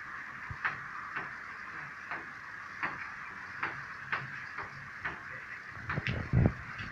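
Light rain: a steady hiss with scattered drops tapping irregularly, about two a second. A few louder, deeper thumps come about six seconds in.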